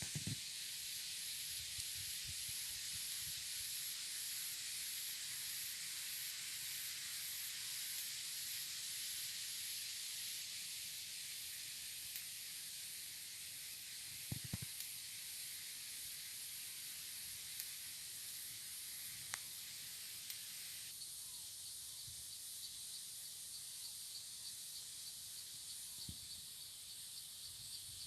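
An insect chorus: a steady high-pitched hiss with a fast, even pulsing near the top. About two-thirds of the way through it changes, and a lower pulsing band comes in. A few faint clicks and knocks sound now and then.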